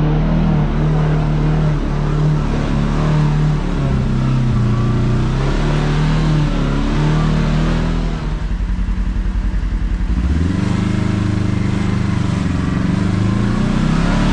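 Kawasaki KRX side-by-side's parallel-twin engine running on the trail, its pitch rising and falling with the throttle. About eight seconds in it drops to a low, rapid putter for two seconds, then picks back up.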